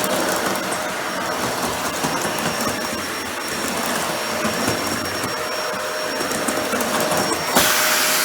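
Dyson Ball Animal 2 upright vacuum running, its suction motor giving a steady rush with a thin whine. About seven and a half seconds in a sharp click comes, and the sound changes to a brighter hiss without the whine.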